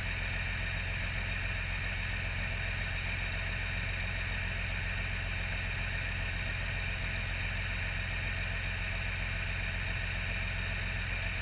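12-valve Cummins inline-six diesel idling steadily, an even low rumble that does not change.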